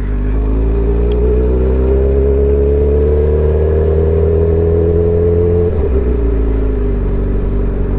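2003 Yamaha R1's inline-four engine with an aftermarket exhaust, pulling under throttle with its note rising slowly, then dropping sharply about six seconds in.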